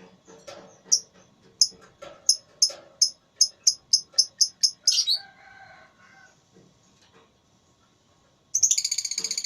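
Lovebirds calling: a run of sharp, high chirps that come faster and faster for about four seconds and end in a longer sliding call. Near the end comes a dense, very rapid chattering trill, the lovebird's 'ngekek'.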